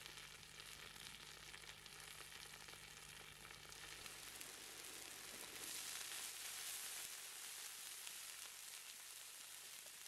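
Browned chicken pieces sizzling in a hot wok, with a louder hiss about halfway through as liquid is poured over them.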